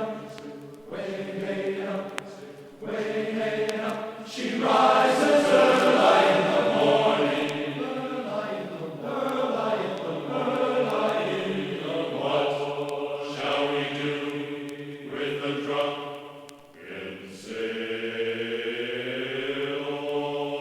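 Background music: voices singing long, sustained chant-like notes in chorus, with slow gliding pitch changes.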